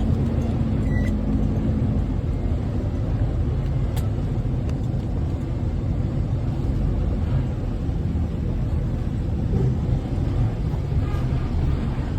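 Diesel truck engine running steadily, a low rumble, with a steady low hum over it for the first two seconds.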